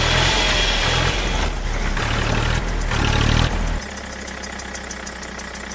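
Engine running steadily and loudly for about three and a half seconds. It then drops to a quieter run with a fast, even ticking and starts fading out near the end.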